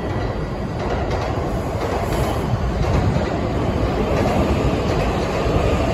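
E4 series MAX double-decker Shinkansen rolling along the platform: a steady rumble of wheels and running gear that grows louder as the cars pass close by.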